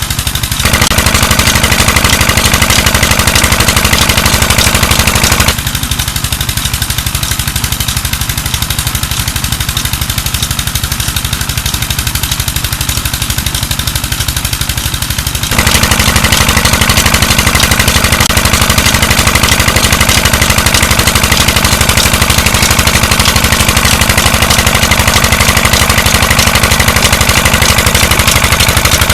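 Peter diesel engine running steadily while driving a tube well pump, with a fast, even exhaust beat. It sounds loud, dips somewhat about five seconds in, and comes back up at around fifteen seconds.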